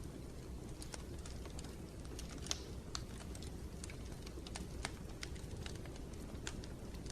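Wood fire crackling in a fireplace: scattered sharp pops and snaps at irregular times over a low steady rumble of the flames, the loudest pop about two and a half seconds in.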